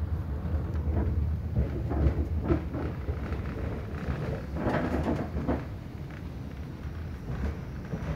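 Inside an AGC train carriage: the steady low rumble of the running train, with scattered short knocks and rattles, strongest about five seconds in.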